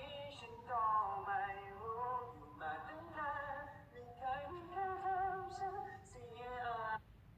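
A solo singing voice holding long notes with vibrato, the melody rising and falling across several phrases. It stops abruptly near the end.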